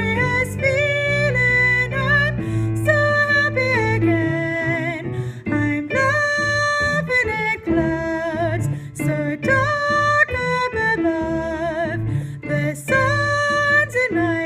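A soprano voice singing held notes with vibrato over an instrumental accompaniment.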